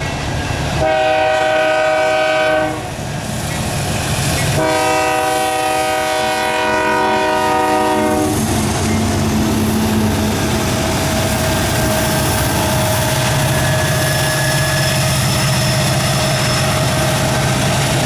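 Horn of a GE AC4400CW diesel locomotive sounding two long blasts, the start of the signal for a level crossing. Afterwards comes the steady low rumble of the approaching locomotives' diesel engines.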